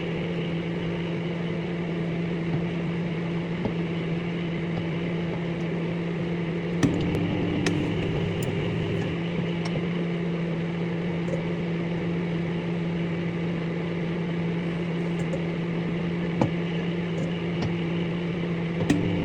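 Microwave oven running with a steady low hum, with a few sharp clicks scattered through it.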